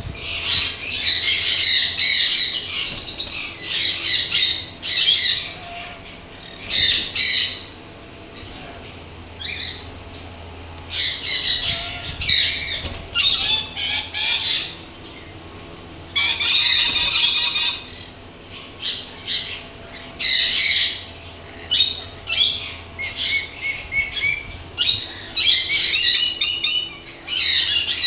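Lutino monk parakeet (Quaker parrot) giving loud, harsh, chattering squawks in repeated bursts, with short pauses between them.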